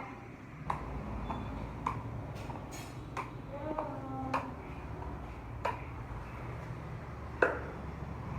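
A series of sharp clicks or knocks, about one every second and a quarter, over a low steady hum, with a short pitched sound between them about four seconds in.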